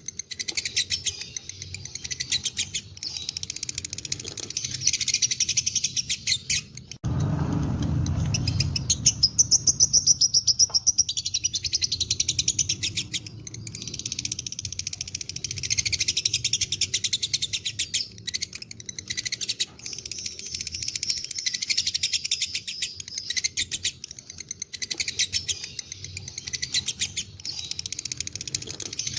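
Lovebirds chattering in long, very rapid high-pitched trills, the continuous 'ngekek' song of a lovebird fighter. About seven seconds in the chatter breaks off briefly under a low rumble, then resumes.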